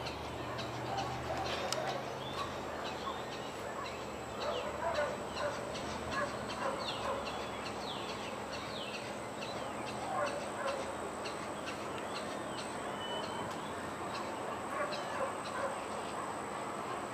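Many wild birds calling at once: a dense mix of short rising and falling chirps and harsher squawking calls, overlapping throughout. A thin, steady high whine joins about two seconds in.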